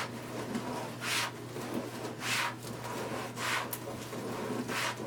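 Deco mesh and burlap ruffles rustling as they are pulled apart and fluffed by hand: four short swishes about a second apart.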